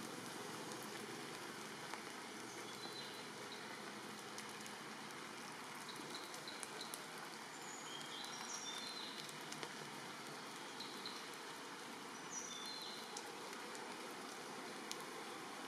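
Steady rain falling, an even hiss with scattered sharp drip ticks. Short high chirps come and go over it.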